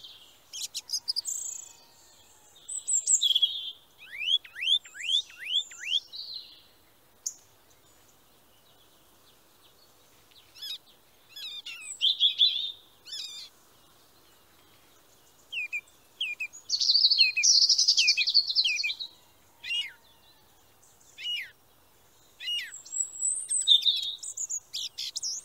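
Songbird singing in short phrases of high chirps and trills, separated by brief pauses. About four seconds in, one phrase is a quick run of five down-slurred notes.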